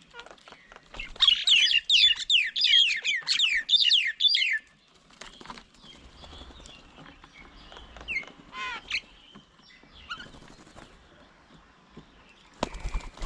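A bird calling at the bird table: a fast, loud run of about a dozen high descending notes, then a few shorter calls later. A sharp knock near the end.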